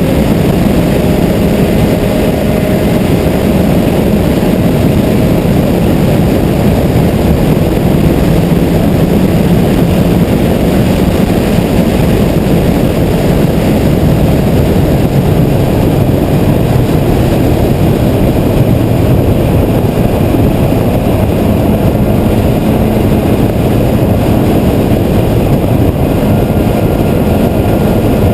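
Car driving at highway speed: a steady engine drone mixed with dense road and wind noise, with no hard revving or gear changes.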